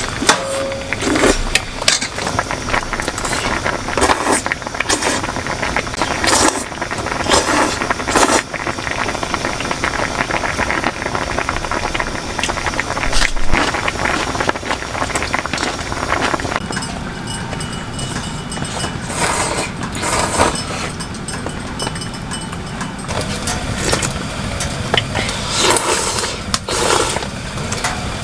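Heavy rain pouring on a tent or tarp: a dense, steady patter with many sharp, loud drops hitting close by.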